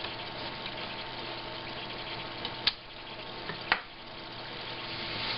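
Steady hiss with a faint hum, broken by two sharp clicks about a second apart.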